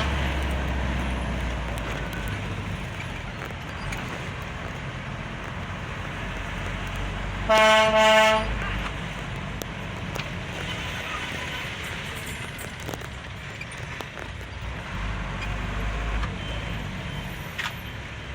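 Road traffic running steadily, with a vehicle horn giving a double toot about seven and a half seconds in.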